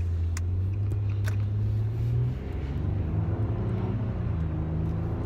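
Car engine heard from inside the cabin as the car pulls away, its pitch rising with speed. About two seconds in the pitch drops as it shifts up, then it climbs again.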